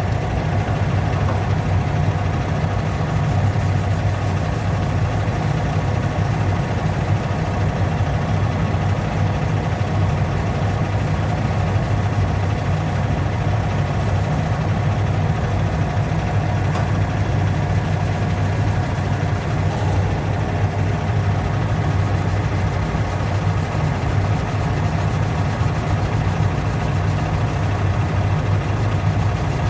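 A steady, unchanging low hum of a machine or motor running, with a few faint steady tones above it.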